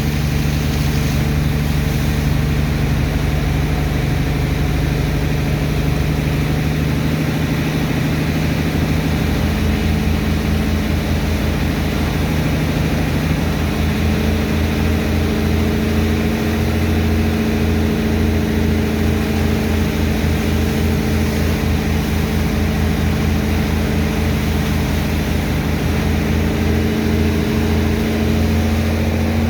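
Heavy engine of a sand dredger's pump running steadily under load while it unloads sand from a barge. Its note shifts about nine seconds in, after which a fast low pulsing runs under it.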